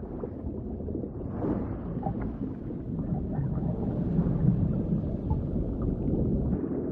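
Underwater ambience: a steady low rumble of water, with a few faint, short humpback whale calls about a second and a half in.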